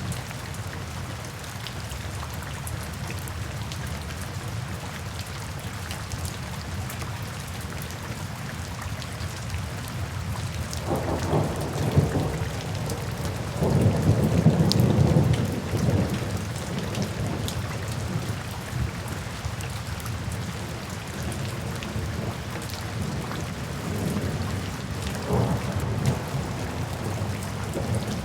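Steady rain falling, with rolls of thunder rumbling through it about halfway, the loudest lasting a couple of seconds, and a weaker rumble near the end.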